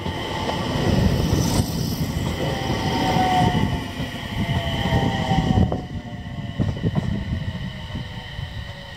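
JR East E721 series electric train pulling away over the rails: wheel rumble with clicks over the points and joints, a steady high electric whine, and a tone sliding slowly lower. It fades after about six seconds as the train leaves.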